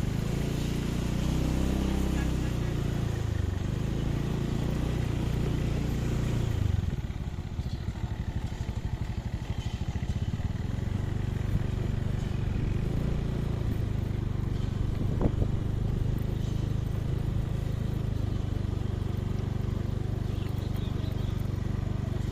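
Vehicle engine running on the move, its pitch rising and falling through the first seven seconds as it changes speed, then holding steady. There are a couple of short knocks, one about fifteen seconds in.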